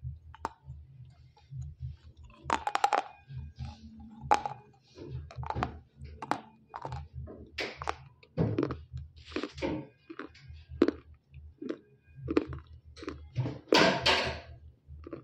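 Close-miked chewing of a piece of roasted edible clay: soft, lightly crunchy bites in irregular bursts, with a few louder crunches, the loudest near the end.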